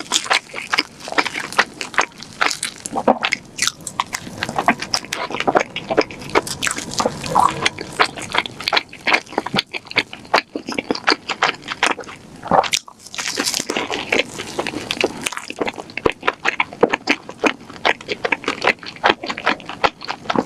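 Close-miked chewing of donuts with whipped cream: wet mouth clicks and smacks, many to the second, with no letup.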